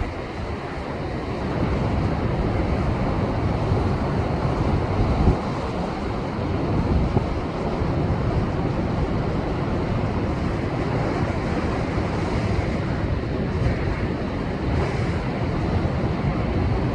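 Heavy surf from a rough, post-typhoon sea breaking against shoreline rocks in a continuous wash of noise that swells and eases. Wind buffets the microphone with gusty low rumbles.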